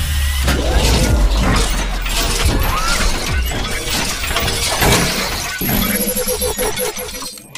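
Loud music with repeated crashing, glass-shattering sound effects, over a deep drone for the first couple of seconds.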